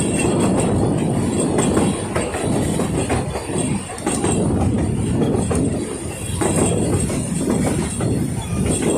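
Puffing Billy narrow-gauge steam train, hauled by locomotive 8A, running along the line: a steady dense noise with scattered clicks from the moving train.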